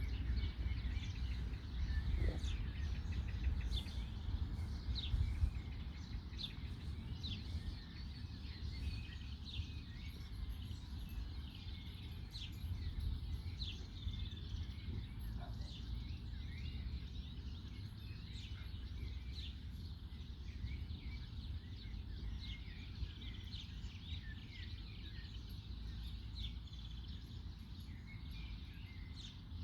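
Several songbirds chirping and singing in trees, short calls repeating throughout, over a steady low outdoor background rumble.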